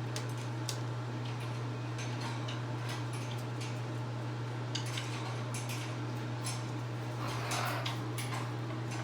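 Steady low hum with scattered sharp clicks and taps at irregular intervals, and a brief rustling patch about seven and a half seconds in.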